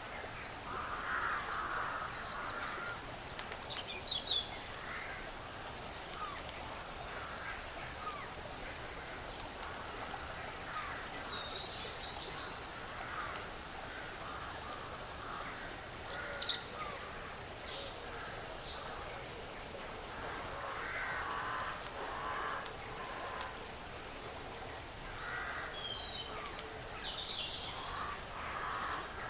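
Woodland ambience: birds calling repeatedly, with short harsh calls mixed with higher chirps, over a scatter of small clicks and rustles.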